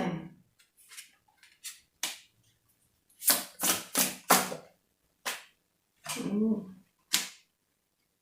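Tarot cards being shuffled and handled: a series of separate sharp slaps and flicks, with a quick cluster of four about halfway through. A short murmur of voice comes near the end.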